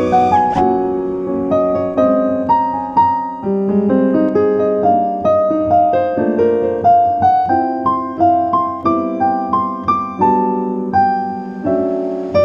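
Background piano music: a melody of struck notes, several a second, each fading after it is played.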